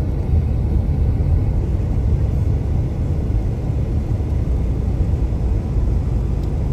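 Steady low road rumble of a car interior while driving: engine and tyre noise heard from inside the cabin.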